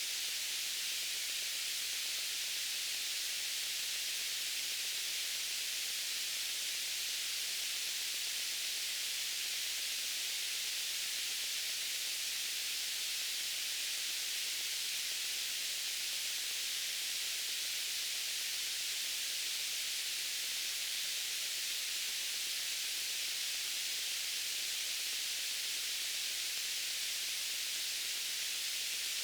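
Steady white noise: an even, unchanging hiss, bright and high-pitched, with little low end.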